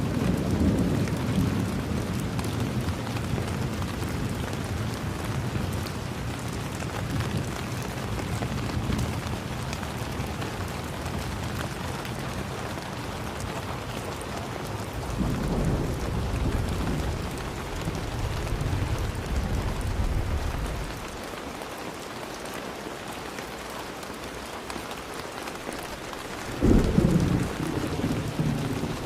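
Steady rain falling, with low thunder rumbles: one fading over the first couple of seconds, a longer one from about halfway, and a sudden, louder peal near the end.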